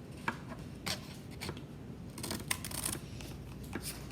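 Scissors snipping little cuts into a cardboard toilet paper tube: a few irregular snips and clicks, with some rustling of the cardboard being handled.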